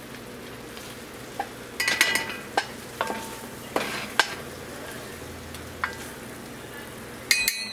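Butter and onions sizzling steadily in a pot as flour goes in to start a roux, with a wooden spoon knocking flour out of a stainless steel measuring cup in a string of sharp taps. Ringing metal clinks from the cup come near the end.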